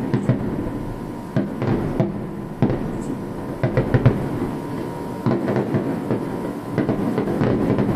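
Aerial firework shells bursting in quick succession: a dense, continuous run of bangs over a low rumble, with several sharper reports standing out.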